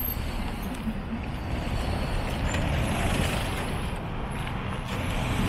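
Outdoor street noise: a steady low rumble with a broad hiss over it, like road traffic.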